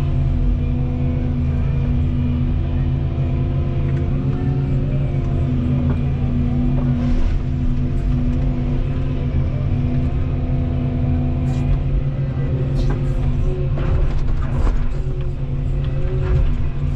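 Volvo 235EL excavator's diesel engine running steadily under hydraulic working load, its pitch shifting slightly, with a few short sharp knocks in the second half.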